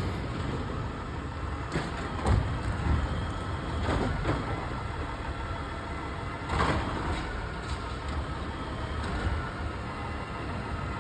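A garbage truck's engine running in a low, steady rumble, with a few short louder noises about two seconds in, again around four seconds and near seven seconds.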